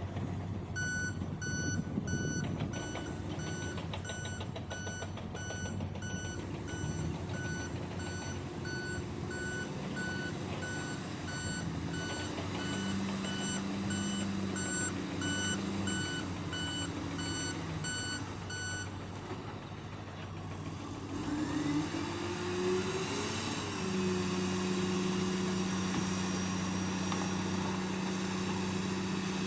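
Dump truck's reversing alarm beeping at a steady pace, about one beep a second, over the running truck engine. The beeping stops about two-thirds of the way through, the engine note rises briefly, and then the engine runs steadily.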